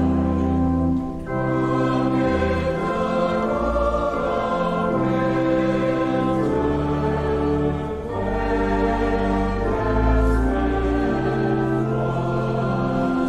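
Choir singing a hymn in harmony over held accompaniment chords with a deep bass, the chords changing every second or two.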